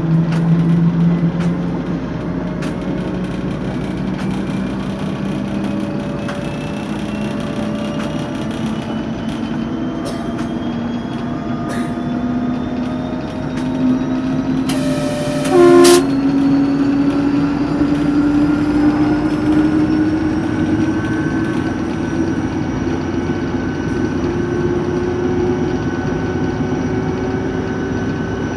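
TEP70 diesel locomotive running under power, its whine and high turbocharger whistle climbing slowly and steadily in pitch as it gathers speed. The horn sounds once about fifteen seconds in, for about a second.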